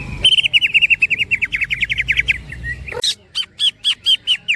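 Cucak ijo (green leafbird) singing: a fast rattling run of about ten short notes a second that drifts slightly down in pitch, then, after an abrupt change, a slower string of sharp, clipped notes about four a second.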